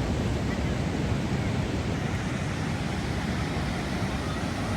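Ocean surf, a steady wash of breaking waves, with wind on the microphone.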